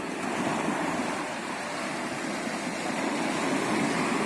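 Sea waves washing onto a beach: a steady surf wash that swells a little in the second half.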